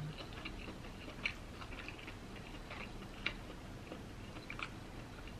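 Faint chewing of seafood, with scattered small wet clicks; two clicks a little sharper, about one second and three seconds in.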